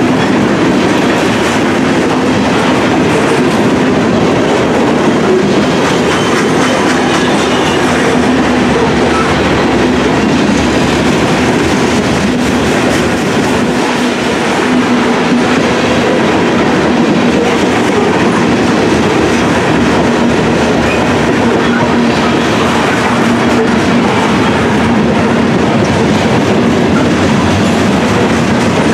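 Covered hopper cars of a freight grain train rolling past, steel wheels running on the rails in a loud, steady rumble with a faint steady hum beneath it.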